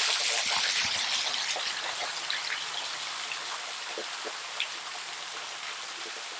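Waterfall pouring and splashing: a steady hiss of falling water with scattered drips and splashes. It is loudest at first and eases to a lower steady level over the first few seconds.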